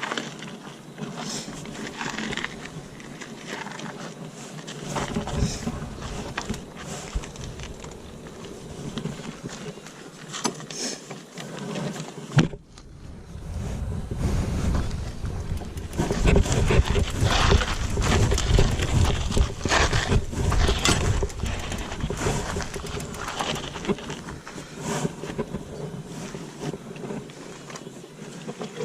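Mountain bike descending a trail: wind buffets the microphone over rattling and tyre noise from the bike on rough ground. There is a brief drop-out about twelve seconds in, and heavier rumble follows in the middle stretch.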